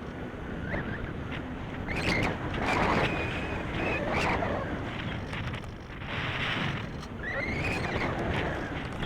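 Wind buffeting the microphone in gusts, a rough, rumbling rush that swells loudest a few seconds in. Brief high wavering tones come and go a few times over it.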